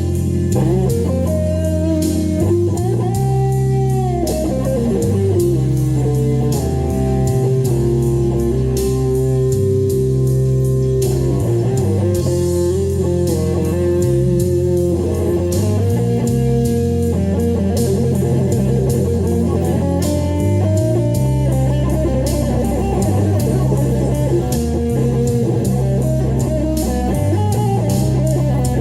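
Guitar playing a bluesy lead line with string bends over a backing track of bass and drums.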